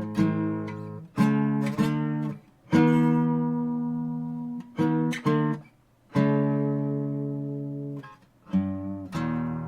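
Art & Lutherie Wild Cherry acoustic guitar strummed in slow, separate chords, some struck in quick pairs and others left to ring out for about two seconds before the next strum.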